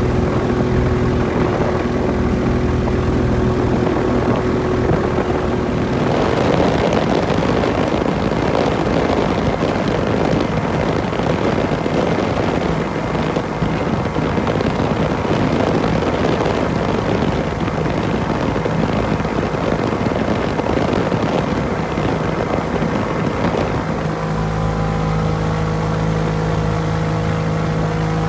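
Rotax 582 two-stroke engine and propeller of a Corsario MKI ultralight amphibian running. The first few seconds are a steady engine tone. From about six seconds in, a loud rushing noise covers it, and a steady engine tone at a different pitch returns about four seconds before the end.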